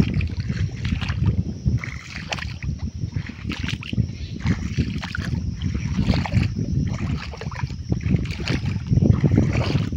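Tractor engine rumbling with heavy, gusty wind buffeting the microphone.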